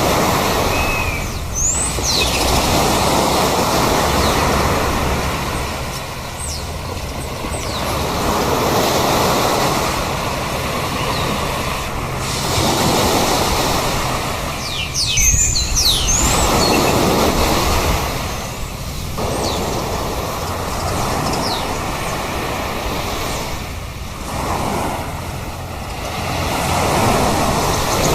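Sea waves breaking and washing in, the surf noise swelling and fading every several seconds. Birds give short, high calls over it: once or twice near the start, in a quick cluster about halfway through, and again a little later.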